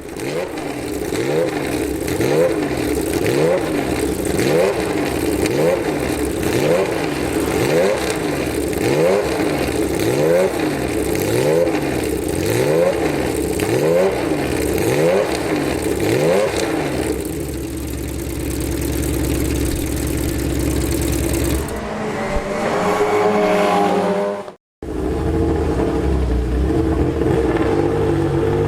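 Unsilenced race car engine revving up and dropping back over and over, about once a second, then running at a steadier pitch. After an abrupt cut near the end, another race car engine runs at a steady pitch.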